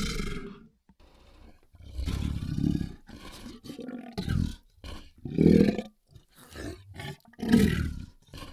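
Large monster choking sound effect: a run of short, irregular gagging bursts with gaps between them, the loudest about halfway through and near the end. The tail of the previous creature sound fades out at the very start.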